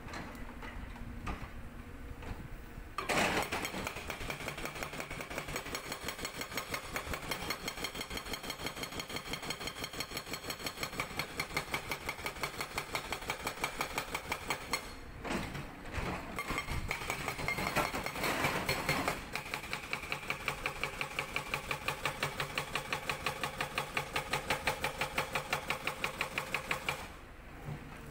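Hydraulic rock breaker on a Cat 320D excavator hammering rock in rapid repeated blows over the diesel engine, starting about three seconds in, breaking off briefly twice near the middle and stopping shortly before the end.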